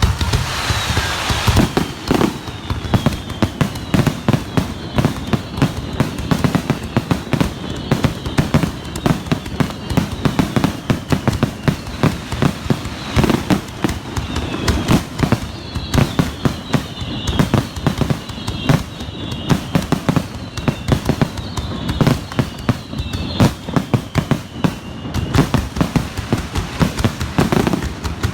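Fireworks finale barrage heard from close to the launch site: a dense, unbroken run of launches and bursts, with whistles falling in pitch through the middle stretch.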